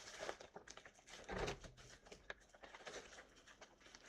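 Quiet handling noises, faint small clicks and rustles, with one short low hum-like sound about a second and a half in.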